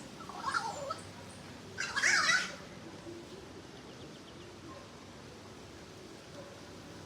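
A bird giving two short, harsh calls, the second louder, about two seconds in.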